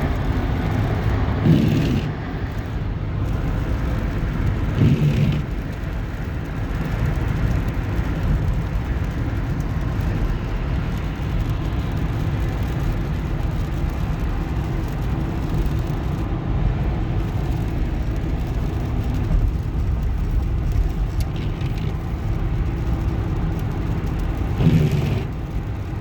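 Steady road noise inside a moving vehicle: a continuous low rumble of engine and tyres, with a few short louder moments.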